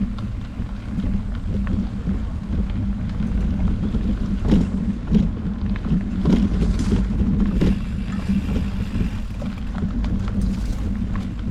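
Mountain bike rolling along a dirt trail: steady tyre and wind rumble on the microphone, with several sharp knocks and rattles in the middle as it goes over bumps.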